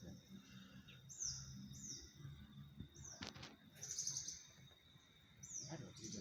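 A small bird's short high chirps, each falling quickly in pitch, repeated about four times with irregular gaps, over a thin steady high whine.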